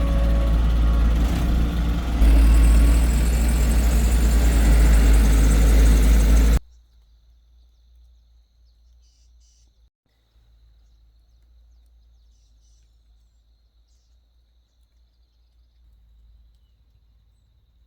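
Heavy construction machine's diesel engine running under load with a deep rumble; it gets louder and harsher about two seconds in, then cuts off abruptly after about six and a half seconds. After that only a faint hum remains, with a thin high tone and a few short high chirps.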